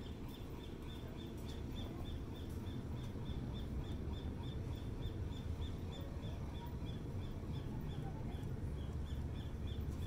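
A bird calling over and over, short high chirps about three a second, over a steady low rumble.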